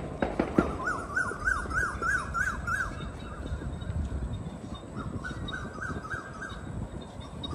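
A bird calling in two quick series of repeated rising-and-falling notes, about three a second, with a pause between the series. A few sharp knocks at the very start.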